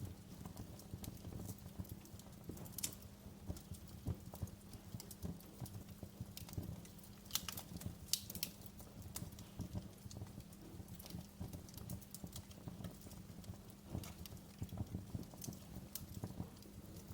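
Wood fire crackling in a fireplace: a dense, irregular run of small pops and snaps over a low rumble, with a few louder pops about three, seven and eight seconds in.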